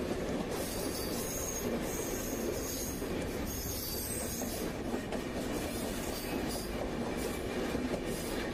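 Steady rumble of express trains running side by side on parallel tracks, steel wheels rolling on the rails, with a faint high-pitched wheel squeal from about one second to about four and a half seconds in.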